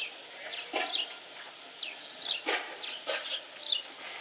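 Birds chirping busily: many short, quick down-slurred calls, several a second, with a few louder calls among them.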